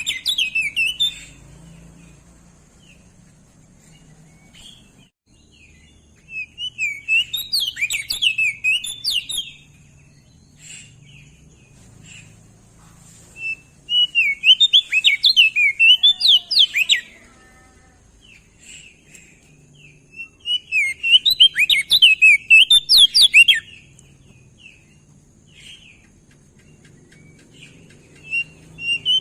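Crested white-eye (opior jambul) singing in repeated bouts of rapid, warbling chirps, each about three seconds long, with pauses of several seconds between bouts.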